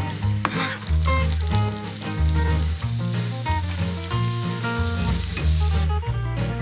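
Background music with a steady, pitched bass line, over the sizzle of meat pieces and carrot strips frying in oil in a nonstick pan as they are stirred.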